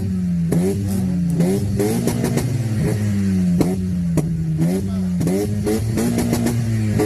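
Mazda MX-5 NB four-cylinder engine held on its rev limiter, the high engine note bouncing up and down as the limiter cuts in. Sharp exhaust pops and crackles come about twice a second.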